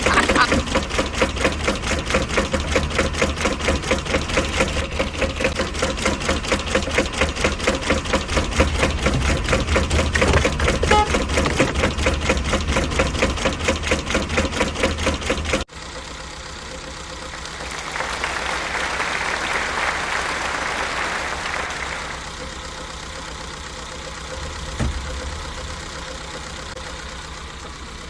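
Car engine idling with a fast, even pulsing clatter. About halfway through it cuts off abruptly to a quieter steady hum, which swells for a few seconds and then fades back.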